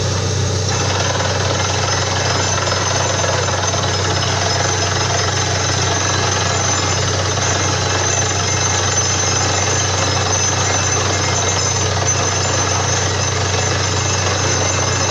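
Borewell drilling rig running: a steady, loud hammering clatter from the down-the-hole drill over the low hum of the rig's engine and compressor.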